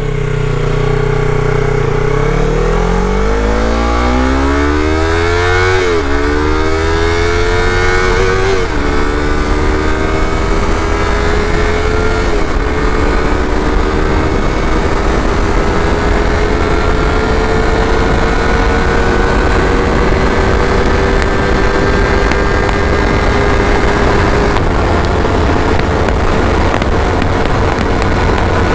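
Yamaha R3's 321cc parallel-twin engine through an Akrapovic slip-on exhaust, pulling away hard and revving up through the gears, with upshifts about 6, 9 and 12 seconds in. It then climbs slowly in a high gear and holds a steady note near the end, with wind noise underneath.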